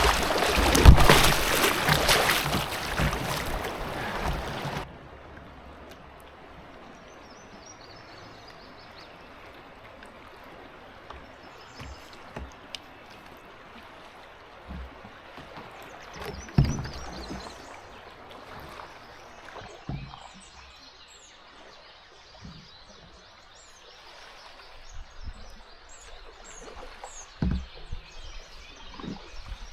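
Canoe on a river: for the first few seconds loud rushing water and wind noise, which stops abruptly. Then quieter water with a few low thumps and birds chirping in the second half.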